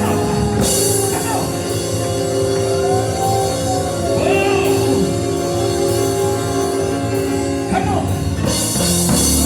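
Loud live church praise music, a band with organ-like held chords, drums and cymbals, with voices singing or shouting over it.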